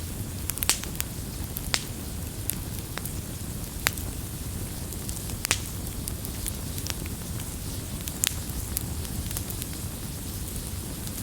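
Wood campfire crackling: a steady low rush of burning with sharp pops every second or two, the strongest about a second in, near two, four and five and a half seconds, and past eight seconds.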